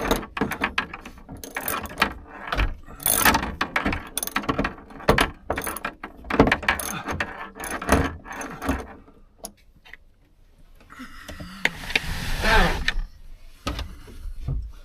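Hand ratchet clicking in quick irregular runs as a bolt is worked, with a longer scraping rasp near the end.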